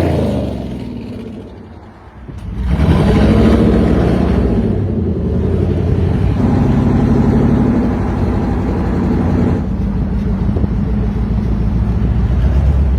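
Citroën GT concept car's engine: the revs fall away and the sound fades for about two seconds, then it accelerates hard and runs loud at speed, the pitch shifting slightly as it drives.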